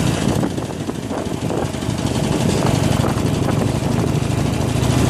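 Harley-Davidson Iron 883's air-cooled V-twin engine running steadily at low speed as the motorcycle is ridden over a rough dirt trail, with a few small knocks from the bumps. The engine dips slightly about half a second in, then picks back up.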